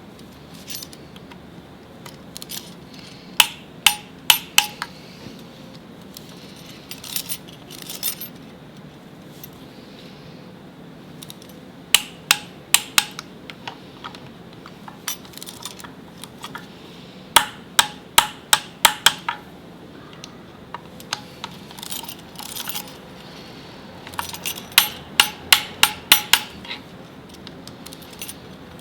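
Metal hand tools clinking and tapping on metal in short clusters of sharp, ringing strikes, several seconds apart, during car transmission work.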